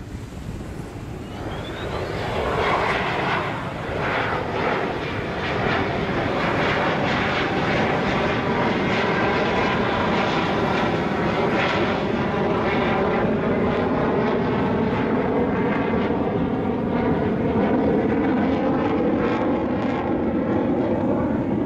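Military fighter jet engine roar that builds over the first few seconds, then holds loud and steady with a slowly shifting rushing tone.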